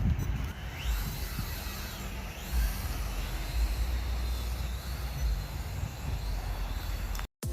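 Wind buffeting the microphone outdoors: a gusting low rumble over a steady hiss, with faint whines rising and falling in pitch. It cuts off abruptly near the end.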